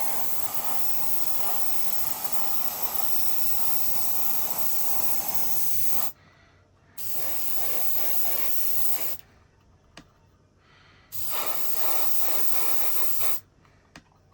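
Paint spraying with a steady hiss, in three bursts: a long one of about six seconds, then two of about two seconds each, with short pauses between.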